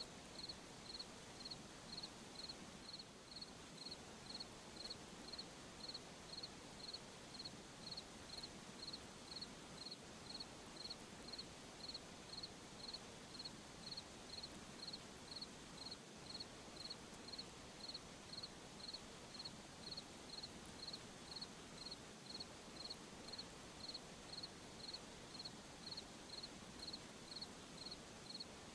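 A cricket chirping at night: short high chirps repeated evenly, about three every two seconds, over a faint steady hiss.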